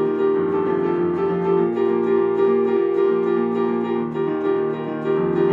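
Keyboard instrument playing held chords with a steady pulse of repeated notes, with no singing.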